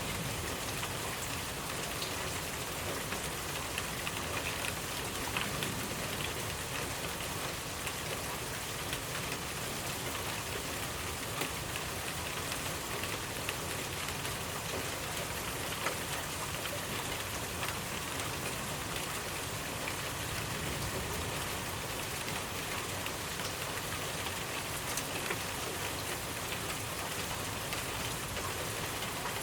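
Steady rainfall: an even hiss with many small drops ticking on a surface.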